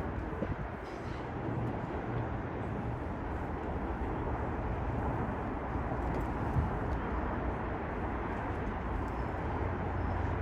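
Steady rumbling noise of a Metro-North commuter train running along the tracks.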